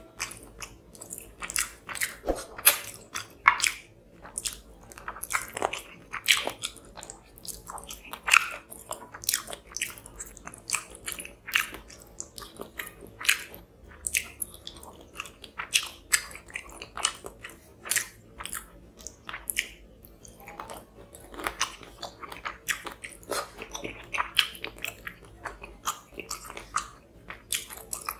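Close-miked chewing and biting of a mouthful of fish curry and rice, eaten by hand: many irregular sharp, wet mouth clicks and crunches.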